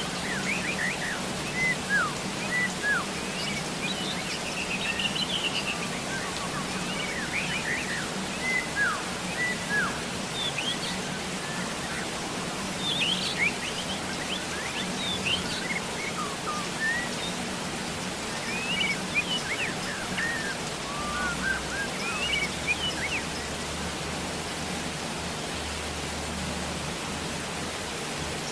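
Steady rain hiss with many birds chirping over it, short quick calls coming every second or two.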